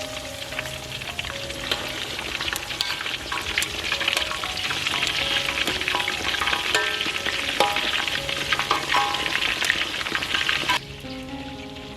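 Food frying in hot oil in a pan, a dense sizzle full of sharp crackles and pops. The sizzle drops away suddenly near the end.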